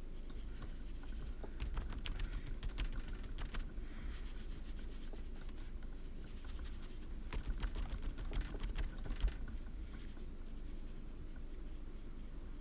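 Clusters of light clicks and taps, one group about one and a half to three and a half seconds in and another around seven to nine seconds in, over a steady low hum.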